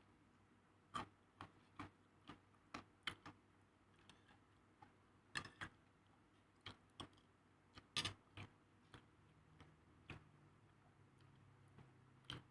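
Irregular light taps and clicks of kitchen utensils against a hard surface, one or two a second and some in quick pairs, over a quiet background; the loudest come about eight seconds in.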